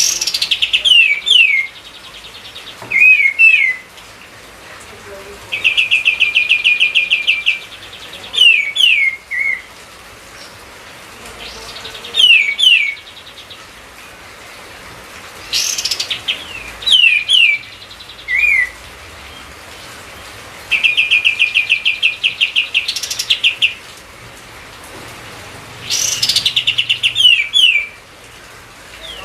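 Kapas tembak songbird singing in repeated phrases. Fast chattering trills of about two seconds alternate with quick downward-slurred whistled notes, with short pauses between phrases.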